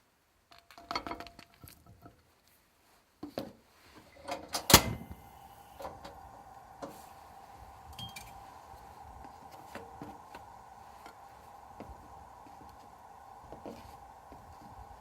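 Kitchen pan and utensils clattering: several light knocks and clinks, then one sharp knock about five seconds in. A steady hiss follows, with occasional light ticks.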